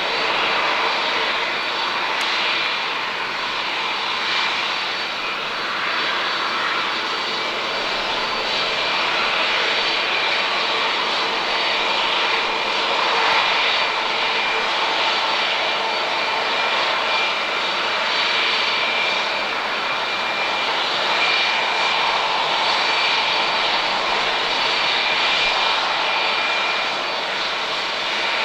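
Airbus A321-231's IAE V2500 turbofan engines running at a steady level: an even jet rush with several steady whining tones over it.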